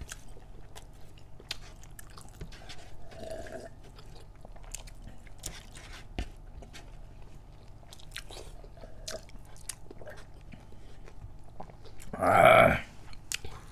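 Close-miked mukbang eating sounds: scattered wet mouth clicks and chewing of pork curry and rice. Near the end comes a louder burst of about half a second.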